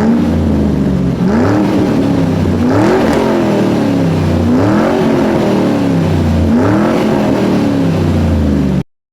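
A loud engine-like sound revving up and down over and over, its pitch rising and falling about every second and a half to two seconds, then cutting off suddenly near the end.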